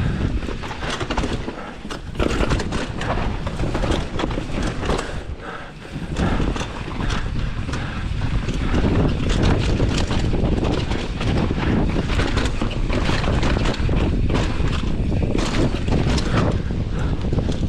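Commencal Meta AM 29 mountain bike descending a rough dirt trail at speed: steady wind rush over the microphone and tyre roar, with frequent short rattles and knocks from the chain and frame over bumps.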